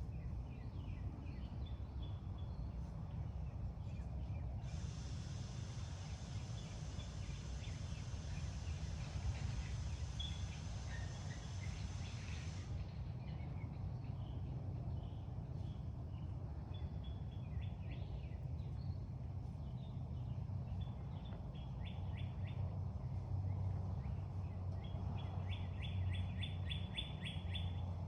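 Birds chirping in short repeated trills over a steady low hum. An even high hiss starts suddenly about five seconds in and cuts off about eight seconds later.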